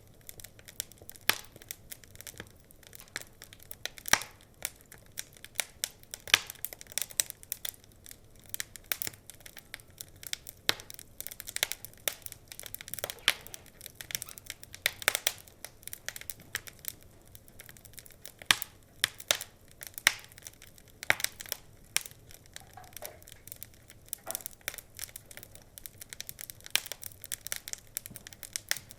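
Wood fire crackling: a constant, irregular patter of small pops and snaps, with a few sharper, louder pops now and then.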